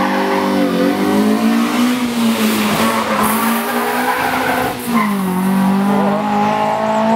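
Race car engine running at high revs with tyres squealing and skidding through a corner. About five seconds in, the engine note dips briefly, then climbs back and holds steady.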